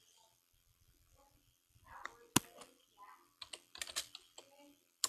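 Irregular sharp clicks and taps, sparse at first, with one strong click about halfway through and a quick cluster of them in the second half.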